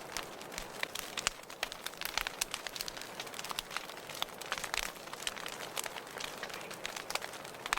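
Wood fire burning in a fireplace, crackling and popping with irregular sharp snaps over a steady hiss of flame.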